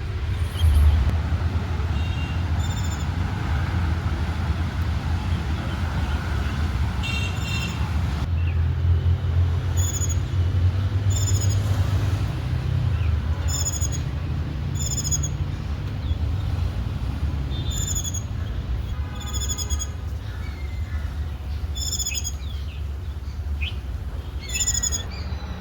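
Indian white-eyes calling: short, high, thin chirps repeated every second or two, over a steady low rumble.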